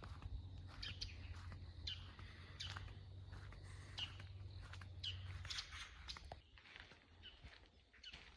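Footsteps on a forest trail, a step roughly every second or less, with birds chirping high; a low rumble stops about five seconds in and the sound is quieter after that.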